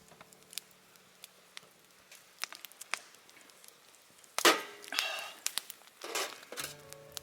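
Scattered sharp wooden clicks and cracks, with three louder scraping, rustling strokes in the second half. Background music comes back in near the end.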